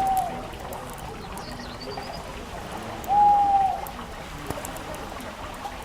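One hooting bird call, a single steady note lasting under a second, about three seconds in, over faint scattered crackling clicks and a brief faint high chirp.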